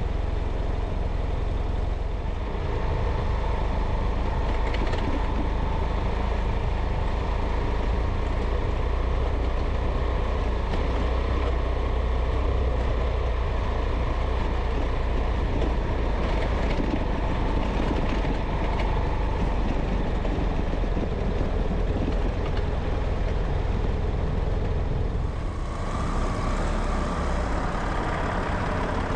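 A vehicle's engine running steadily under way, with continuous road noise. About four seconds before the end, a higher rushing hiss grows louder.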